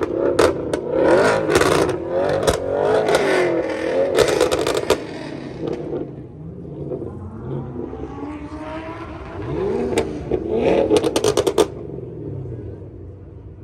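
Car engines revving at a car meet, with the pitch swinging up and down and a few rising revs, and a quick run of sharp pops about two-thirds of the way through.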